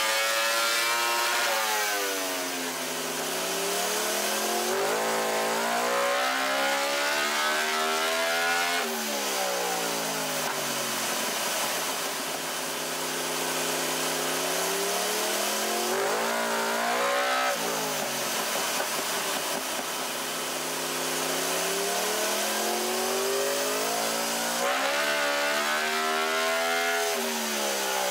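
Yamaha R1's crossplane inline-four, with a full Akrapovic exhaust, running on a chassis dyno under load: the revs climb steadily and fall back again, with a pull ending at about 9, 17 and 25 seconds in.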